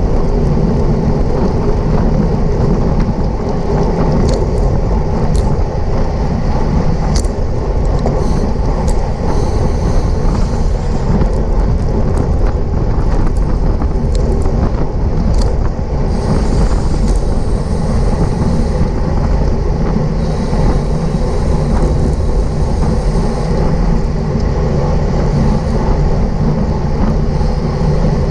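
Wind buffeting the microphone of a camera riding along in a fast-moving bicycle race: a steady, heavy rumble with scattered sharp clicks and patches of higher hiss.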